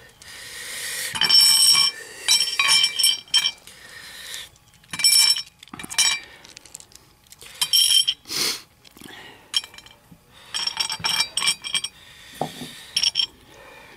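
Small die-cast metal toy parts clinking against a bowl as they are put in, in short bursts of ringing clinks throughout.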